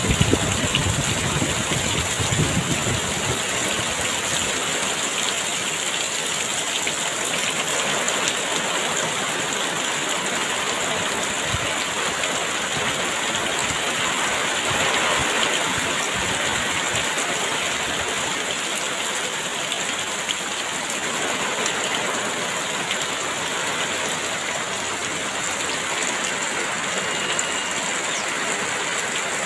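Heavy rain pouring steadily, with wind rumbling on the microphone in the first few seconds. A single brief high whistle sounds near the end.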